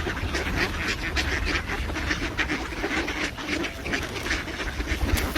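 Ducks quacking, many short calls in quick succession.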